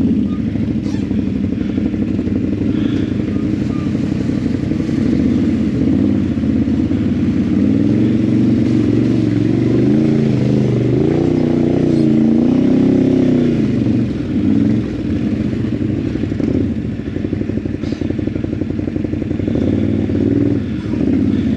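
ATV engine running at low speed, its pitch rising and falling a little in the middle as the throttle is worked.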